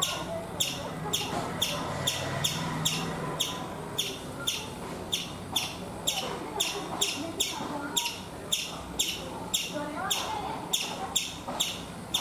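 Indian palm squirrel giving its alarm call: a fast, even run of sharp, high 'chip' chirps, about two and a half a second, repeated without a break.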